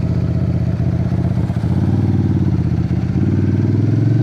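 Suzuki Intruder 800's V-twin engine running steadily at road speed, its note shifting slightly about halfway through and again near the end.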